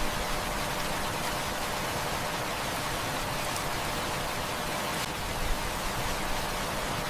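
Heavy rain falling steadily, an even hiss with a few sharp ticks scattered through it, the loudest about five and a half seconds in.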